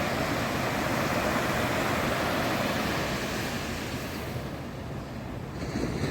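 Ocean surf washing on a sandy beach, a steady rushing hiss that thins out and softens over the last second or two.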